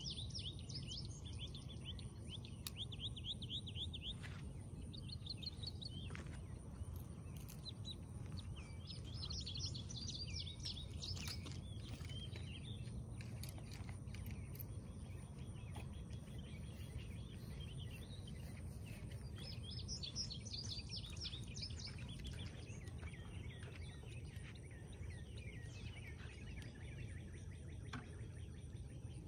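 Songbirds singing, with quick chirping phrases that come in several bursts, over a steady low background rumble and a faint steady high tone.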